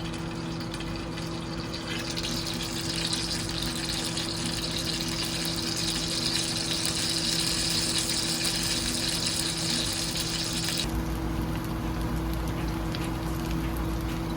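Food sizzling in a hot pan: a steady hiss that grows louder about two seconds in and changes abruptly near eleven seconds, the high sizzle falling away as a low rumble comes up. A steady low hum runs underneath.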